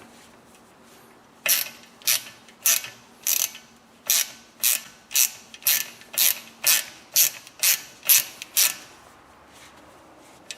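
A ratchet backing out the T30 Torx retaining screw of a brake disc: about fourteen quick rasping strokes of pawl clicks, roughly two a second.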